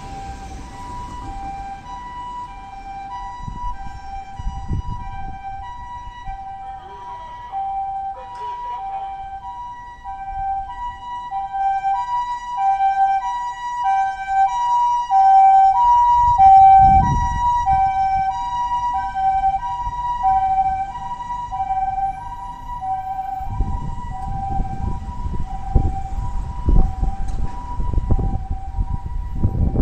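Japanese ambulance siren sounding its two-tone "pee-po" call, alternating high and low, growing louder toward the middle as it comes closer. Low rumbling noise joins in midway and again near the end.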